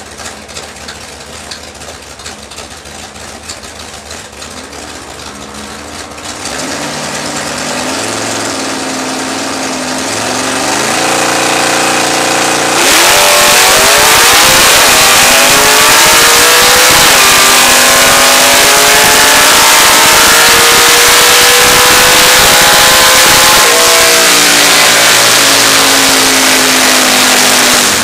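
Plymouth Duster drag car's engine heard from inside the cockpit: a rough idle, then revs stepping up in short rises, and about 13 seconds in a jump to full throttle. The engine pitch climbs steadily for about ten seconds and drops away near the end.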